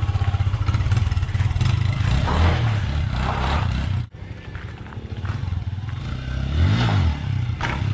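Tuned Yamaha Exciter motorcycle engine revving hard under acceleration on a test ride. The sound breaks off suddenly about halfway, then comes back, and the revs rise and fall again near the end.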